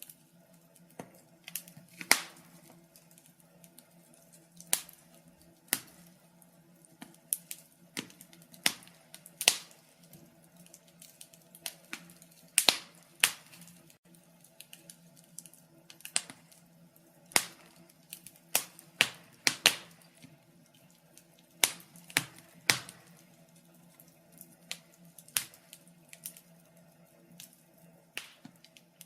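Wood fire crackling, with irregular sharp pops and snaps several times a second, some much louder than others, over a faint steady low hum.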